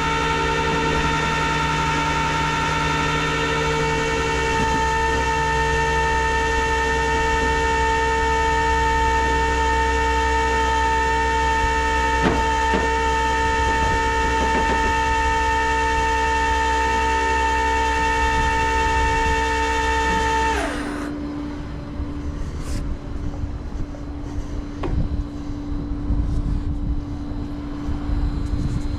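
Tow truck's hydraulic winch/bed pump running with a steady whine while loading the car. It shuts off about 21 seconds in, winding down in pitch, leaving a lower steady hum with a few knocks.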